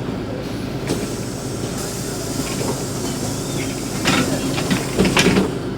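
Cabin of a LiAZ 5292 city bus under way: a steady engine and drivetrain hum with road noise. A few short, louder rattling or hissing noises come about four and five seconds in.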